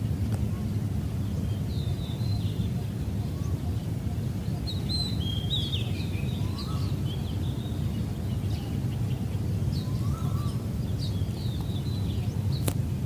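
Small birds chirping in short, scattered calls over a steady low background rumble, with one sharp click just before the end.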